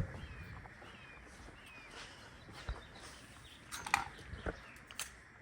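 A small bird chirping in a run of short, falling notes about twice a second, with a few sharp clicks and knocks, the loudest at the very start and a little before four seconds in.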